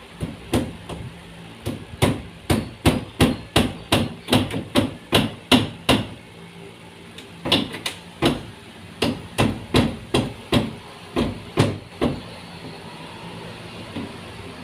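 Hammer blows, about two to three a second, in two runs with a short pause between them, about six seconds in.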